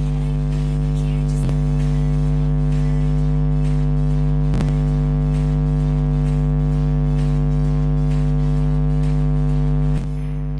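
Loud, steady hum made of several held tones stacked on a low drone, with a few faint clicks; the level dips slightly near the end.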